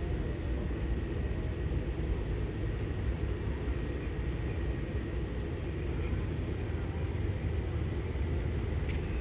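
Cessna Grand Caravan floatplane's turboprop engine droning steadily after take-off, a low even rumble with a faint steady whine above it.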